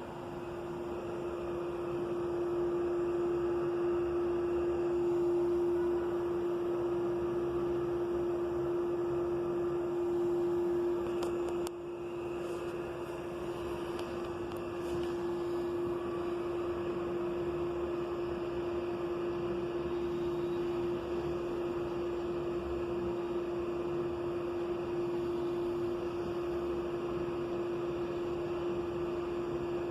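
Steady machine hum: one constant mid-low tone over a hiss. A brief click about twelve seconds in, after which it runs a little quieter.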